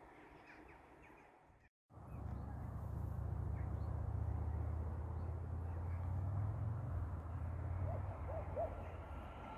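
Low, steady rumble of a train still out of sight in the distance, starting right after a brief dropout about two seconds in. A few faint bird chirps come near the end.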